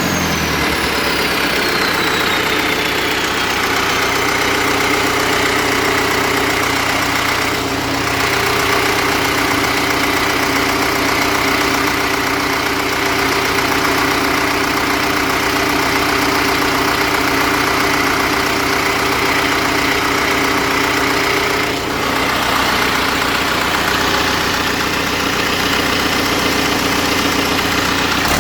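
Deutz BF4L913 air-cooled, turbocharged four-cylinder diesel engine running at a steady speed, its pitch holding constant.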